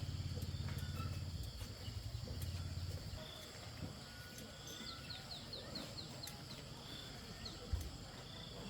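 Faint outdoor ambience with a bird giving a quick run of short, high chirps in the middle, over a low hum that fades out about three seconds in.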